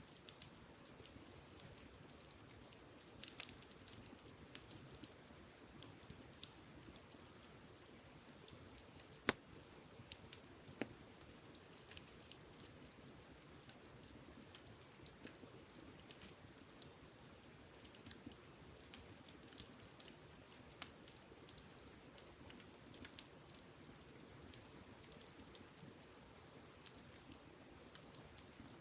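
Wood campfire crackling: scattered sharp pops and snaps at irregular intervals, one louder pop about nine seconds in, over the faint steady rush of a stream.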